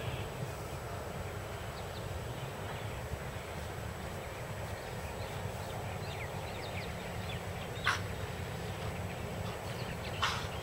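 Outdoor ambience: small birds chirping over a steady low rumble, with two short, sharp, louder calls in the second half, about two seconds apart.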